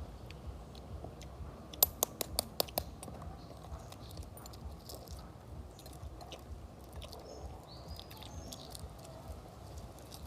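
Eating sounds: a person chewing food, with a quick run of about seven sharp clicks or cracks about two seconds in.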